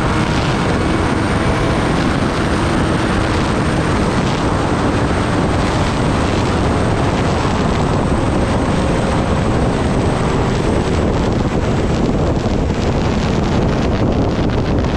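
Heavy wind rushing over the microphone while riding a Kawasaki Ninja ZX-10R at speed. The bike's engine hums faintly beneath it during the first few seconds.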